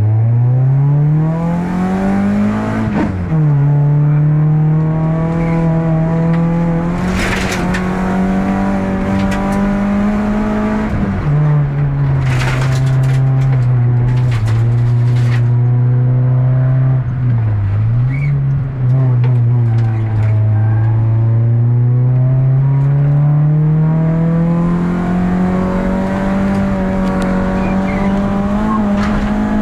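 Citroën Xsara's engine heard from inside the cabin, pulling hard and climbing in pitch, with sudden drops about 3 and 11 seconds in as it shifts up, a brief dip and recovery a little past halfway, then a slow climb again. A few sharp knocks and rattles from the road come through in the middle.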